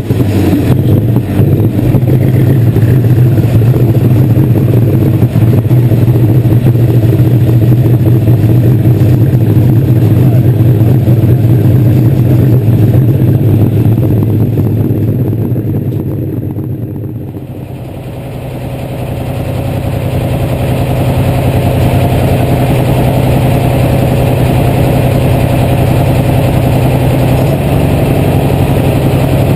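Light super stock pulling tractor's diesel engine running at a steady speed, heard close up. A little past halfway it eases off and softens, then picks back up.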